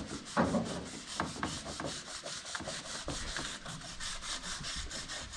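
Hand sanding of a truck's body: sandpaper rubbed back and forth in quick, even strokes, about four or five a second. A brief louder thump about half a second in.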